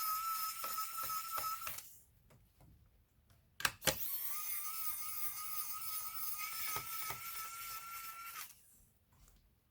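A small electric motor whining steadily at a fixed pitch in two spells, stopping about two seconds in and starting again just after a sharp double click near the middle, with a few small clicks along the way.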